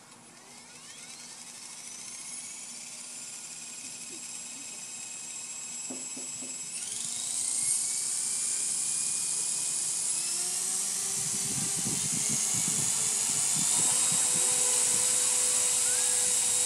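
Blade 300 RC helicopter's electric motor and rotors spooling up. A high whine rises in pitch and grows louder over the first seven seconds, jumps up again about seven seconds in, then holds steady and loud.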